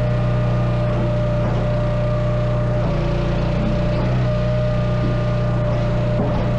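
An engine running steadily at constant speed, with a low hum and a steady higher whine.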